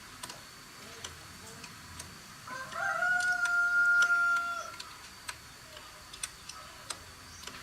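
A rooster crowing once, a single long call of about two seconds that scoops up and then holds steady, starting a few seconds in. Light sharp clicks are scattered around it.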